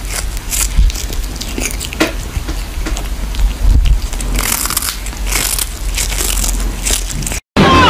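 An animal chewing something crunchy: irregular crunches and crackles that stop abruptly near the end.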